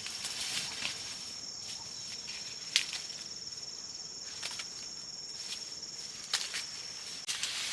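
An insect, cricket-like, chirring in one steady high-pitched note that stops shortly before the end, with a few sharp clicks in between.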